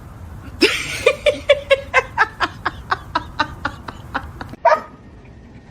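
A person laughing in a quick run of short pulses, about four or five a second, fading as it goes on, with one louder burst near the end.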